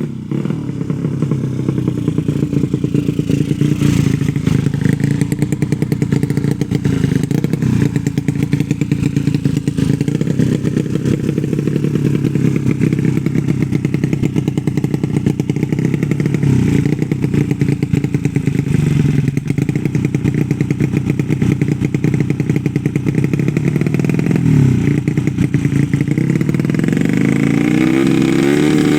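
Race-tuned 115 cc bebek (underbone) motorcycle 'sleep engine' running and being revved up and down repeatedly, its pitch dipping and rising again several times and sweeping up sharply near the end, while its carburettor setting is still being worked out.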